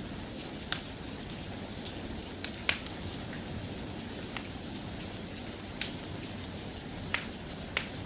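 Steady soft rain hiss with a log fire crackling, giving irregular sharp pops every second or so. The loudest pop comes a little under three seconds in.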